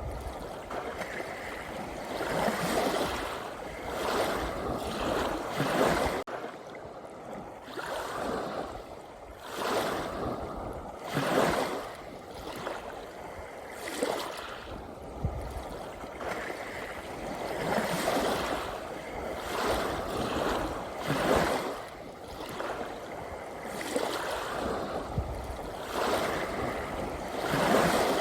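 Small sea waves washing in, a rushing of water that swells and falls back about every two seconds, some surges louder than others.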